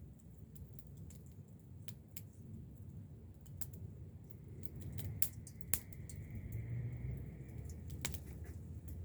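Campfire crackling: irregular sharp pops and snaps over a low steady rumble, with two louder pops about five to six seconds in.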